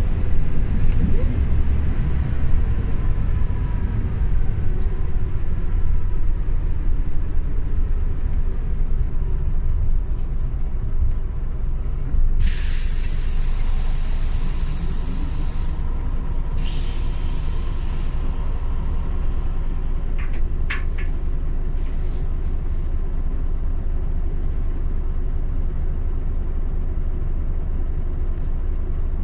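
Scania OmniLink city bus running, a steady low engine rumble, with two loud hisses of released compressed air from the bus's air system about halfway through, a long one and then a shorter one.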